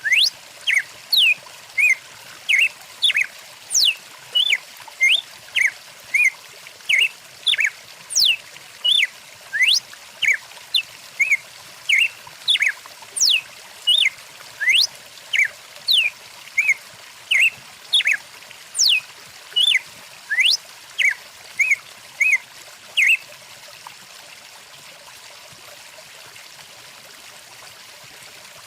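Birds chirping in quick short whistled notes, one to two a second, over the steady rush of a flowing stream. The chirping stops about 23 seconds in, leaving only the running water.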